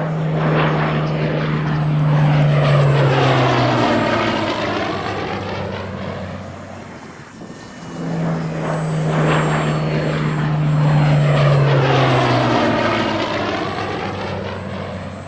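Sound effect of a propeller-driven piston-engine aircraft flying past, dubbed over an RC Hawker Hurricane model's flight. The same flyby plays twice, each pass swelling and fading, with its low engine drone cutting off suddenly near the end of each pass.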